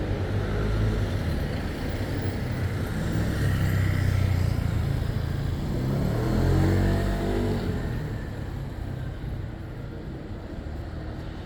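Street traffic: motor vehicles passing with a low engine rumble. It swells twice, the second time with a clear engine note as a vehicle goes by, then eases off near the end.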